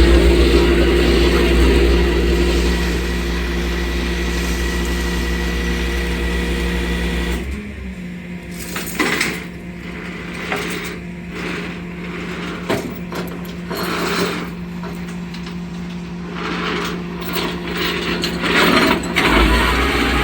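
Flatbed tow truck's machinery running with a steady hum and deep rumble. About seven and a half seconds in the rumble drops away, leaving the hum with scattered clicks and knocks, and the rumble comes back near the end.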